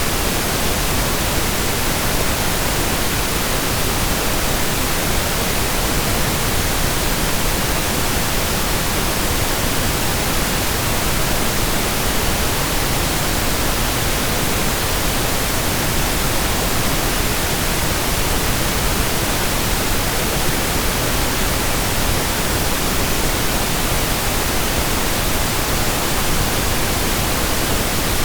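Steady pink noise: an even, unchanging hiss spread across the whole range, softer in the highs than white noise.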